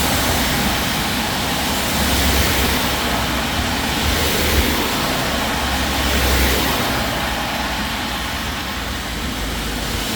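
Steady hiss of heavy rain, with road vehicles passing on the wet road, their low rumble swelling a couple of times.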